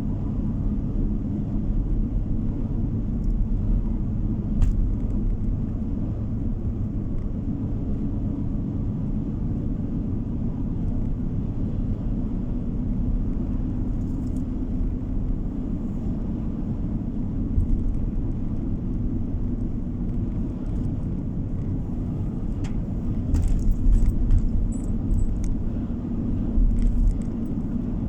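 Car driving at steady speed, heard from inside the cabin: a continuous low road and engine rumble, with a few faint clicks or rattles a little past three-quarters of the way through.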